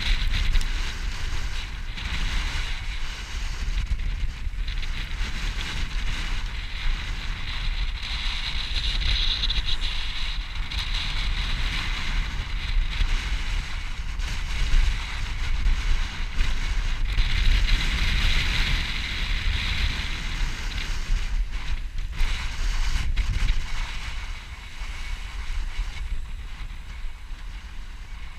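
Strong wind buffeting the microphone with a low rumble, over the rush of water streaming past a sailboat's hull in high winds. The rush swells louder twice, about a third of the way in and again past halfway.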